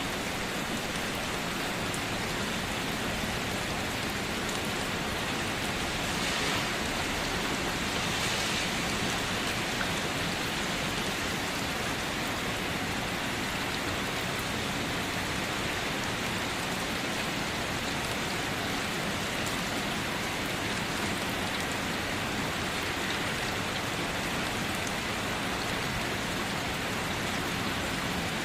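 Steady rain falling, an even dense hiss of drops on surfaces, with slightly heavier spells of patter about six and eight seconds in.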